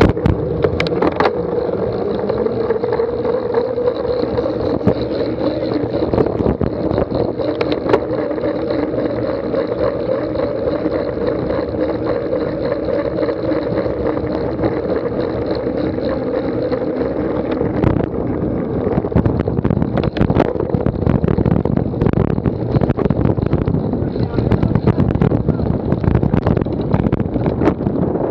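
Wind buffeting the microphone, with a steady rumble and frequent knocks and rattles that grow busier about two-thirds of the way through.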